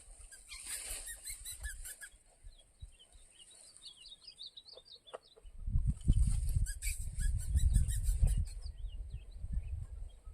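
Small birds chirping in many short, scattered notes over a steady, high, pulsing insect buzz. About six seconds in, a loud low rumbling noise comes up for about three seconds.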